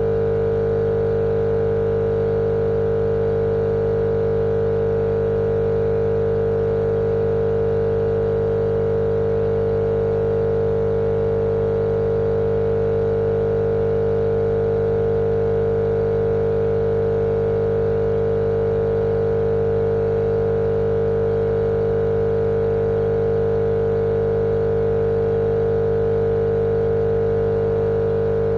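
Steady, unchanging motor drone with a strong humming tone, played as white noise to lull babies to sleep.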